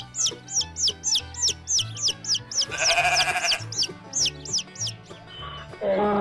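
Quick high chirps, each falling in pitch, repeat about three times a second over background music with a steady beat. A single bleat sounds about three seconds in.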